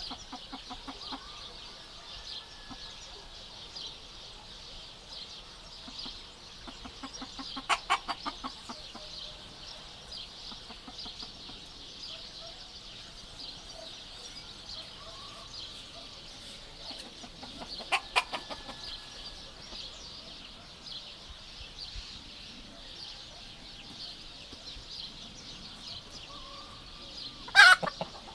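Chickens clucking softly over a steady high-pitched hiss, with three much louder calls breaking out: about eight seconds in, about eighteen seconds in, and loudest near the end.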